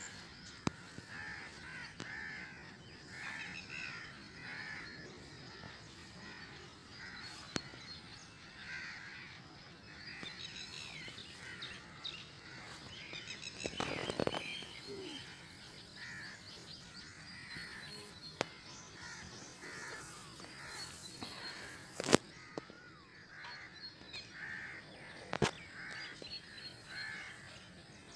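Faint birds calling over and over, with one harsher, louder call about halfway through. A few sharp clicks cut across it.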